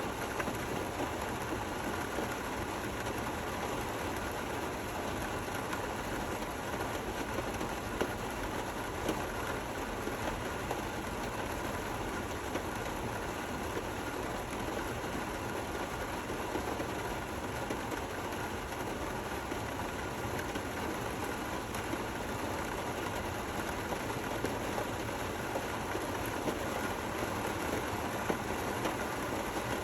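Steady rain falling, an even hiss with scattered small drop taps.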